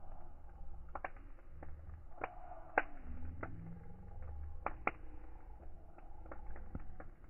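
Fire crackling in a fireplace: irregular sharp pops and snaps over a low rumble of flames, with two louder pops about three and five seconds in.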